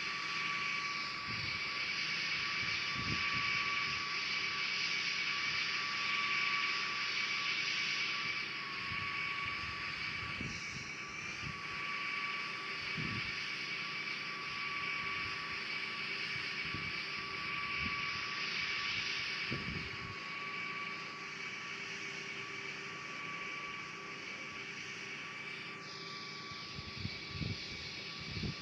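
Airbus A340 jet airliner's engines heard on its landing approach: a steady rush with a high, even whine, slowly fading.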